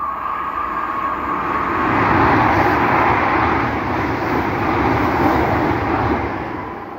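A regional passenger multiple-unit train passing close by: wheel-on-rail noise and rushing air build over the first two seconds, stay loud as the cars go by, and fade near the end as the tail passes.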